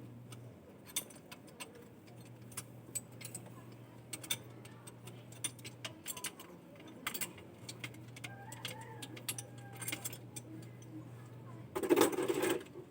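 Scattered, irregular light metallic clicks and clinks of small hard objects being handled, over a low steady hum that cuts in and out. A louder clatter comes about twelve seconds in.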